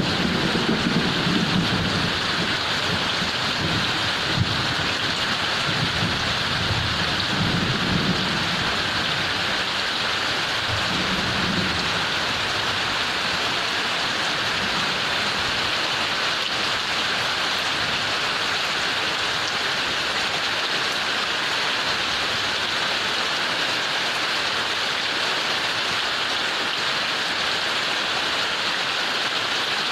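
Heavy rain falling steadily, with a low rumble of thunder that dies away in the first dozen seconds.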